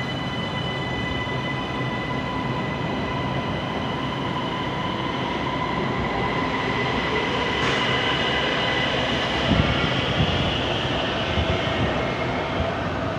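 Siemens Inspiro metro train departing, with a steady high-pitched whine over a weird rolling noise. A few low knocks come about two-thirds of the way in.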